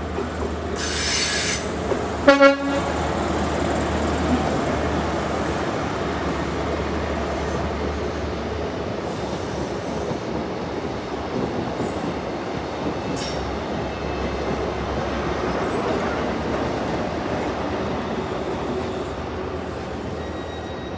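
GWR InterCity 125 (HST) diesel train sounding its horn twice near the start, a higher note and then a shorter lower one, then running past with a steady rumble of engines and wheels on the rails.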